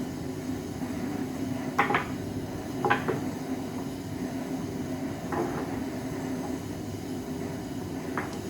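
Hand tools and metal parts being handled: four short sharp clinks and knocks, spaced a second or more apart, over a steady low hum.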